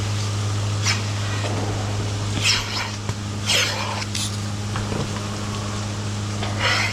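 Milking-shed machinery humming steadily at a low pitch, with a few short hissing bursts on top.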